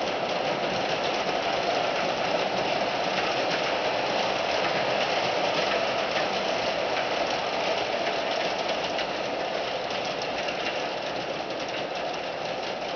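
Williams FP45 O-gauge model locomotive running steadily with its 32-car train, a continuous electric-motor whir with fine clicking of the wheels over the track.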